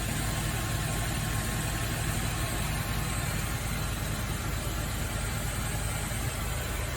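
Nissan Z33 Fairlady Z's VQ35DE V6 engine idling steadily after its overhaul.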